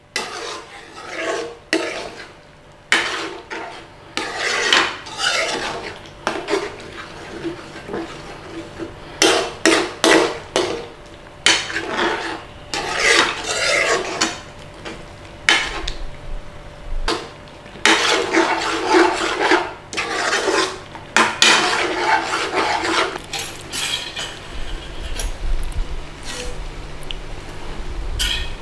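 A cooking utensil stirring and scraping through thick tomato curry in a pan, in irregular runs of strokes with short pauses between; the strokes thin out near the end.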